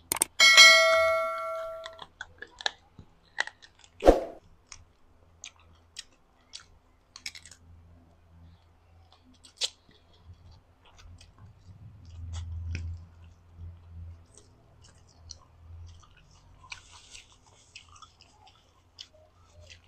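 Close-miked chewing of boiled chicken eaten by hand, with scattered soft wet clicks of the mouth. A bell-like chime rings out near the start and fades over about a second and a half, and a single thump comes about four seconds in.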